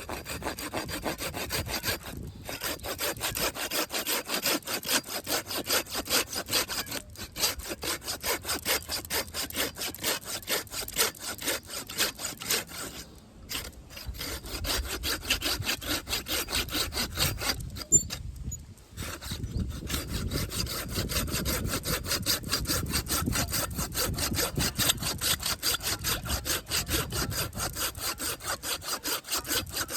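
A Samurai hand saw cutting through wood in quick, even back-and-forth strokes, with a few short pauses between runs of strokes.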